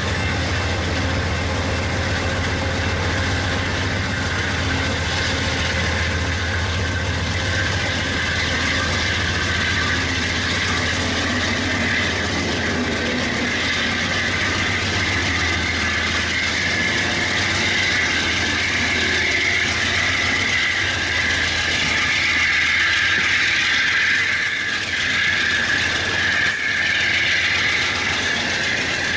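Diesel-hauled passenger train rolling past at close range, its locomotive engine making a steady low hum. A high steady squeal from the wheels grows stronger over the last several seconds as the cars go by.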